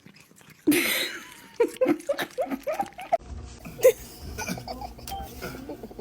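A person laughing in a quick run of short bursts, after a brief breathy burst about a second in.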